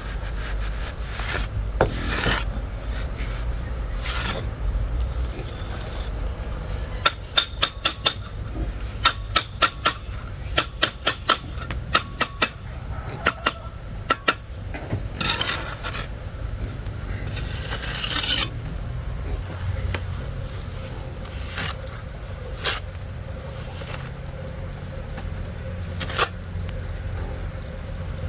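Work sounds of hand tools or hard objects: a quick run of sharp clinks and taps about a third of the way in, then two longer rasping swishes and a few single knocks, over a steady low hum.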